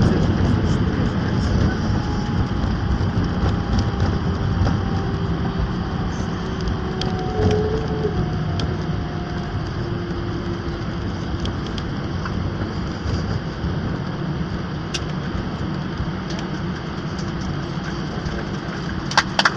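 Airliner cabin noise just after landing: a steady rumble of the jet engines and rolling wheels that slowly eases as the aircraft slows, with faint gliding engine tones.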